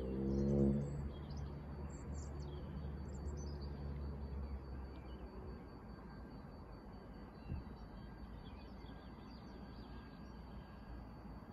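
Small birds chirping and twittering on and off over a steady low rumble. A pitched hum with several tones rises slightly and stops about a second in.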